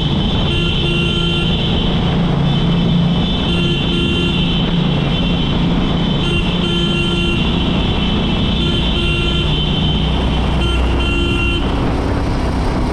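Motorcycle engine running steadily at road speed, with an intermittent pitched tone that sounds in short stretches about every two to three seconds.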